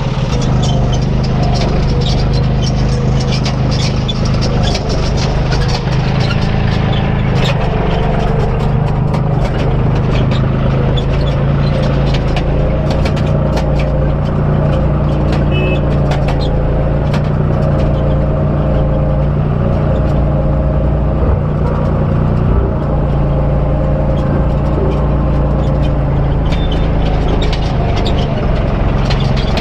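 Diesel engine of earthmoving machinery running steadily under load. Many short sharp knocks and clatters sound over it throughout.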